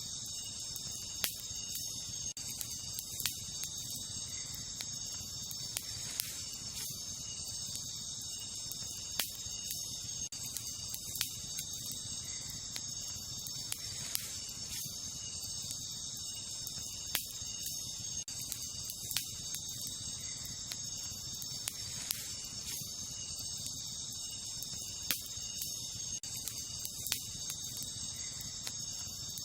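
Wood campfire crackling, with a sharp pop every two to three seconds and a low steady rush of flame. Behind it, a steady high chorus of crickets and other night insects.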